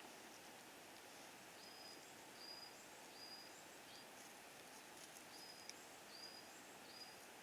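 A bird calling faintly: a short, high, thin note repeated about seven times at an even pace, over a quiet outdoor background hiss.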